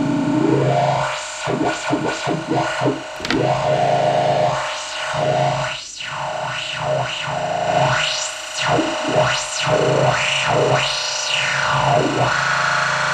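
Modular synthesizer lead: a distorted, FM-modulated oscillator tone run through echo and a filter, with the filter swept up and down again and again. The low part of the tone cuts in and out in quick stutters.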